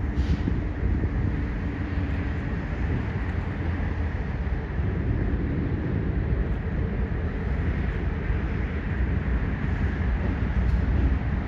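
Diesel switching locomotive running with a steady low rumble.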